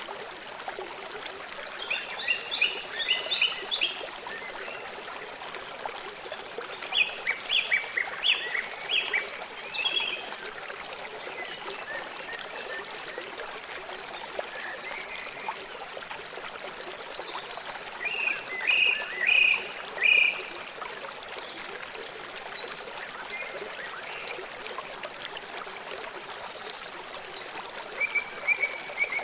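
Running stream water, with a songbird singing four short phrases of rapid high notes over it.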